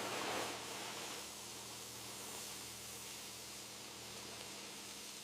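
A steady, even hiss with a faint low hum under it, a little louder in the first second and then constant.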